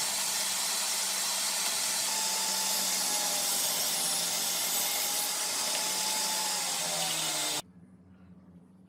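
An electric power tool running steadily with a hum and a faint wavering whine, cutting off abruptly about seven and a half seconds in.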